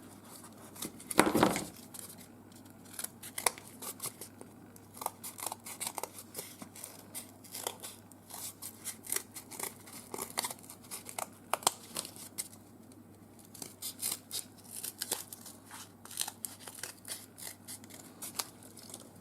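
Scissors snipping around a craft-foam stamp, trimming it: a long run of short, irregular snips, with one louder bump about a second in.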